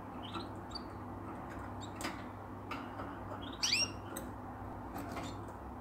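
Cage birds chirping: short high chirps within the first second and a louder run of chirps about three and a half seconds in, with a few sharp clicks between them and a low steady hum underneath.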